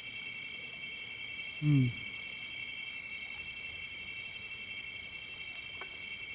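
Steady chorus of crickets, several shrill pitches held together without a break. A brief grunt-like voice sound comes about two seconds in.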